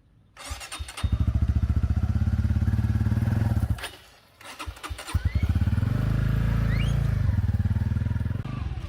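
Motorbike engine running with a rapid, even firing beat from about a second in. It drops away for about a second near the middle, then runs steadily again.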